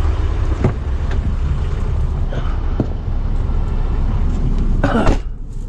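Motorhome engine running with a steady low rumble, heard from inside the cab as the vehicle sets off. A few faint clicks, then a short voice-like sound near the end.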